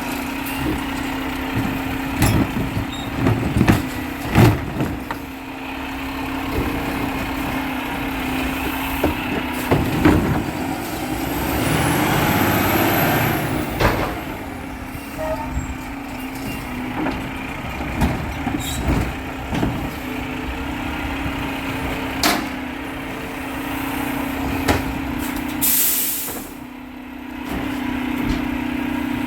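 Garbage truck engine running steadily, with scattered clanks and knocks. A louder stretch with a high whine that rises and falls comes around the middle, and a short air-brake hiss near the end.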